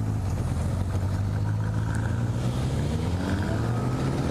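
Motorcycle engine running steadily under way, its pitch rising as it accelerates from about three seconds in.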